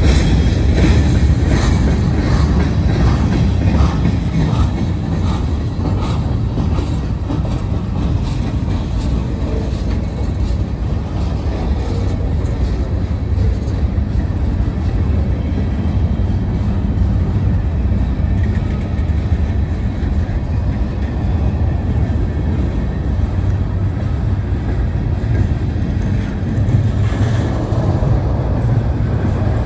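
Freight train cars (open-top hoppers) rolling past: a steady low rumble of steel wheels on rail, with a regular clickety-clack of wheels over rail joints, about two a second, through the first several seconds.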